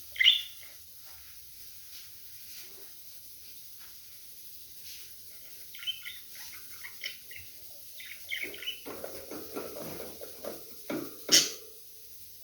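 Budgerigars chirping: scattered short, high chirps, then a busier run of chatter in the second half, with one sharp, loud sound near the end.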